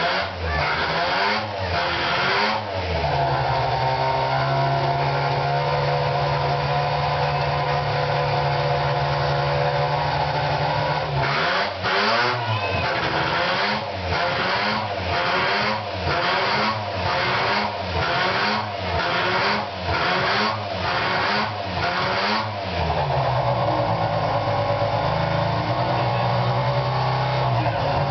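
Mazda RX-500's 10A twin-rotor Wankel engine running: three quick throttle blips at the start, then a steady idle. Near the middle comes a run of about ten short revs roughly one a second, after which it settles back to idle.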